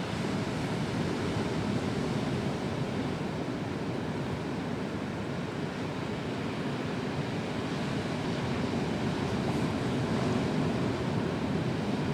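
Ocean surf breaking on a beach: a steady rushing wash of waves with no distinct events.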